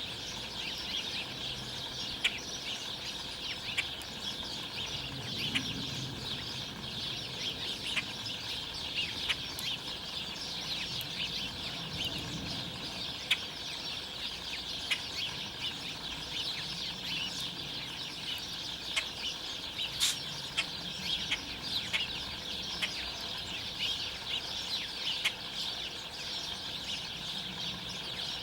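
A flock of songbirds chattering steadily, dense chirps and calls overlapping, with many short, sharp calls standing out.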